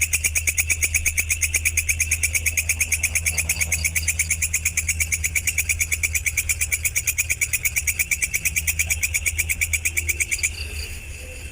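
A high, rapid, evenly pulsed trill, about eight pulses a second, from a masteran training recording, over a steady low hum; the trill stops abruptly about ten and a half seconds in.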